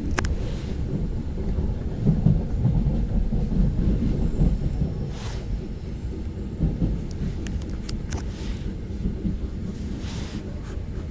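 Steady low rumble of a Gyeongui–Jungang Line commuter train running between stations, heard from inside the carriage, with a few sharp clicks.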